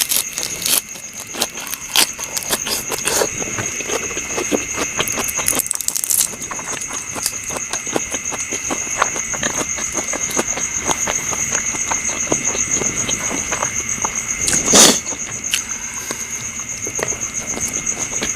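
Close eating sounds, many short clicks of chewing and handling food, over a steady high chirring of night insects, with one louder sound near the end.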